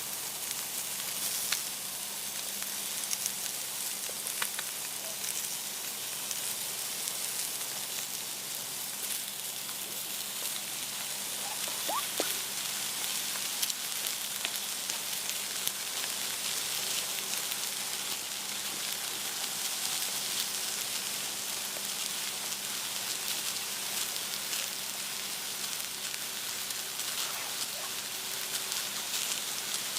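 Steak sizzling in a pan over a campfire: a steady frying hiss with small crackles and pops.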